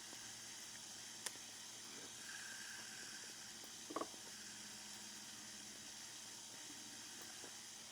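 Faint steady hiss of room tone, with a single light click about a second in and a brief faint pitched squeak about four seconds in.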